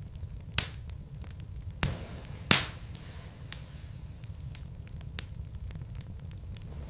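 Wood logs burning in a fireplace, crackling with a few sharp pops over a low steady rumble of the flames. The loudest pop comes about two and a half seconds in.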